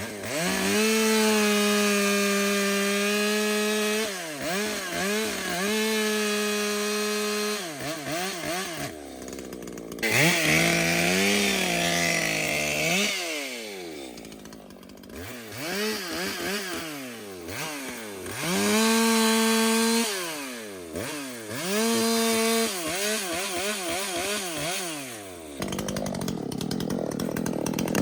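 Ported Echo two-stroke chainsaw run up to high revs and held there in several stretches of a few seconds, as in cutting, with the revs dropping and the throttle blipped in between. Near the end the saw falls back to a rougher, quieter run.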